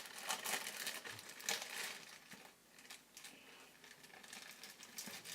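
Faint, irregular crinkling and rustling of a plastic bag being handled.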